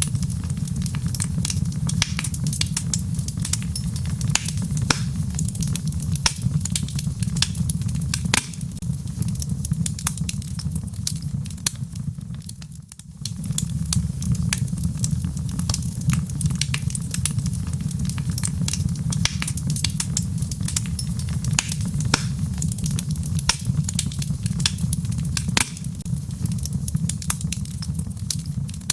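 Wood logs burning in a fireplace, crackling with many sharp pops over a steady low rumble of the flames. The fire dips briefly about halfway through.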